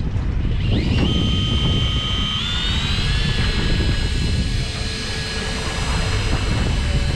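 Electric fishing reel's motor starting up with a quick rising whine, then winding in line with a steady high whine that steps up in pitch twice, over wind and boat noise.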